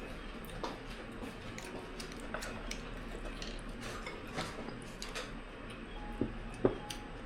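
Scattered light clicks and taps of eating utensils against bowls and plates, with two sharper knocks a little after six seconds in.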